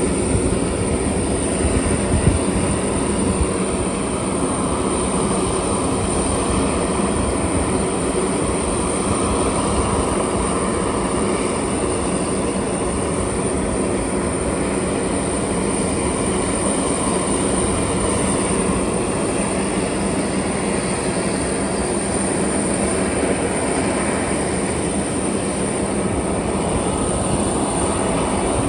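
Steady engine noise on an airfield flight line, with a constant high whine over a low running drone, during a C-130 tow-out.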